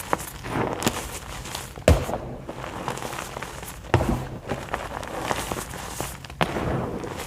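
White gym chalk being crushed: a run of soft, crumbly crunches and crackles with a few sharper snaps, the loudest about two and four seconds in.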